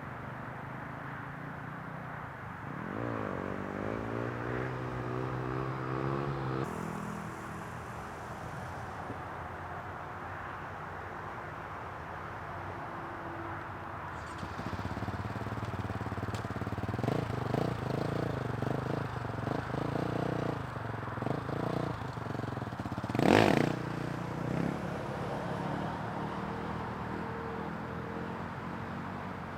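Dirt bike engine revving and running in spells, rising in pitch about three seconds in and again later, fairly faint. A short, loud rushing noise about 23 seconds in is the loudest moment.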